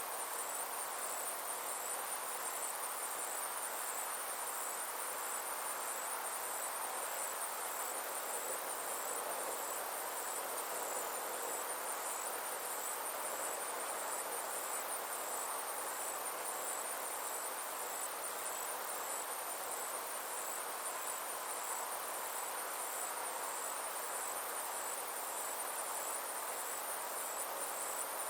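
Insects singing in a continuous high, rapidly pulsing chirr, over a soft, steady, even rushing noise.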